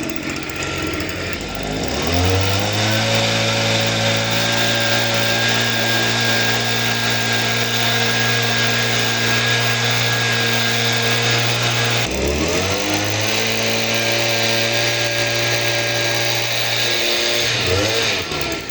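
A motor spinning up with a rising whine, running at a steady speed for about ten seconds, dropping and spinning up again for about five more seconds, then winding down, with a short rev near the end.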